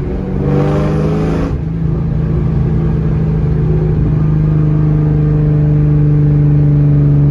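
2003 Mustang SVT Cobra's supercharged 4.6-litre V8 through a Borla exhaust, running steadily. There is a brief rev of about a second, half a second in.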